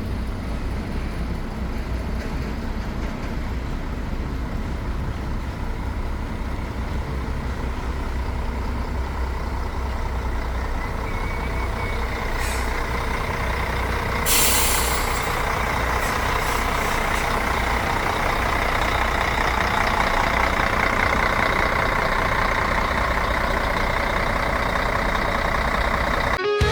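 Heavy truck's diesel engine running steadily, louder in the second half, with a short air-brake hiss about halfway through.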